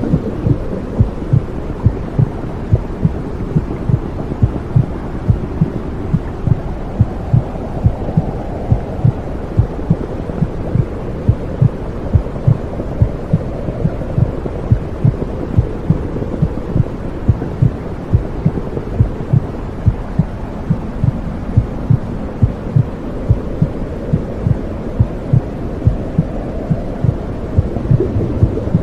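Womb sound: a steady low whooshing rumble with a heartbeat thumping through it regularly, a little over once a second.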